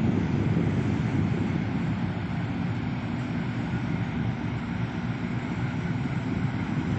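Steady low rumble of a ferry departing port, with no distinct tones or knocks.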